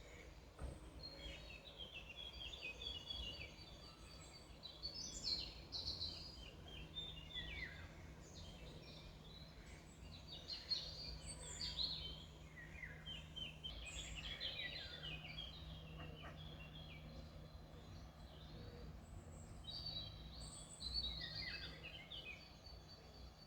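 Small songbirds singing: several phrases of rapid, high chirping notes, with short pauses between them, over a faint low rumble.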